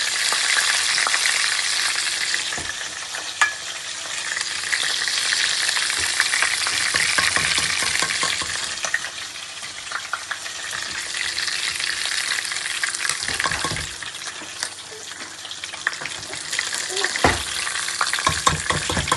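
Chicken leg pieces sizzling as they fry in hot oil in a pan, the hiss swelling and easing as they are stirred. Now and then a utensil clicks or knocks against the pan, most often near the end.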